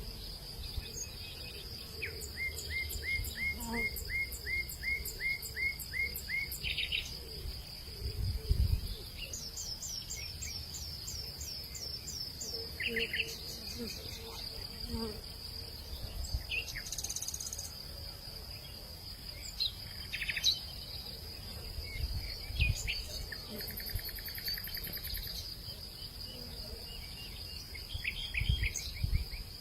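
Hillside nature ambience: insects keep up a steady high trill while birds call over it. A few seconds in, one bird gives a run of about a dozen quick repeated notes; a little later comes a series of falling chirps, then scattered single calls. A few brief low rumbles break in now and then.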